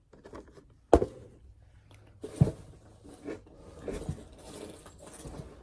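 Boxed toy figures and packaging being handled: irregular rustling and light knocks, with a sharp knock about a second in and a duller thud around two and a half seconds.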